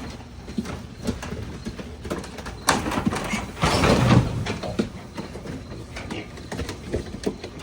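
Piglets being loaded, with scattered knocks and clattering from hooves and the loading ramp or crate. About three seconds in comes a louder, rough rasping burst lasting about a second and a half.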